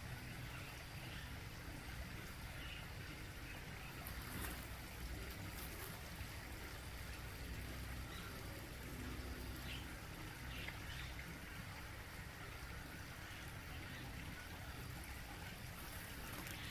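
Garden pond waterfall trickling steadily into the pond, with a few faint short high sounds and a couple of soft clicks over it.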